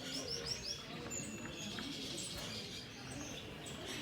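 Mixed calls of many caged aviary birds, chirping and tweeting. A quick run of four short rising chirps comes in the first second, with scattered single calls after it.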